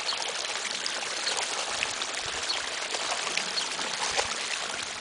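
Running water with a steady rush and small trickling splashes.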